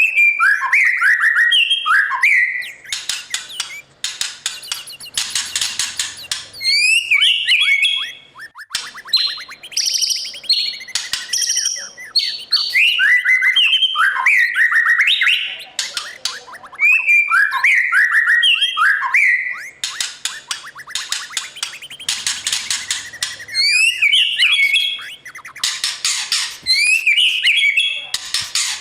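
White-rumped shama singing in loud, varied phrases a few seconds long, separated by short pauses. The phrases mix clear sliding whistles with rapid rattling runs of notes.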